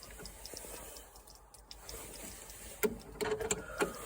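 Hand tools and metal mower parts being handled: quiet shuffling at first, then several sharp clinks and knocks in the last second and a half.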